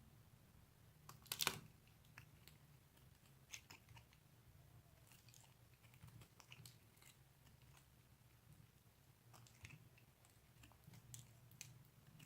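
Dry bar soap being cut and crunched: quiet, scattered crisp crackles and clicks, with a louder crackling burst about a second and a half in.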